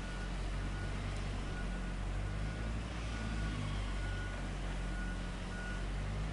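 Heavy diesel machinery running steadily, with a high warning beeper sounding in short repeated beeps over the low engine hum.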